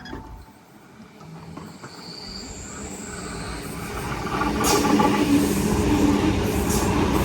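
Sydney Trains Tangara electric train approaching and running through the station. It starts faint with a thin high whine from the rails, then builds to a loud steady rumble of wheels and running gear about four seconds in.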